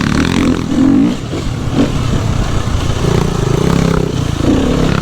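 Dirt bike engine revving up and down as it is ridden along a trail, its pitch rising and falling in repeated surges.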